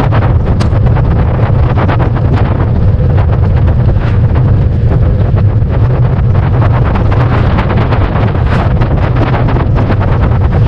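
Heavy wind buffeting a bike-mounted action camera's microphone while cycling, a loud steady low rumble with frequent small clicks and rattles through it.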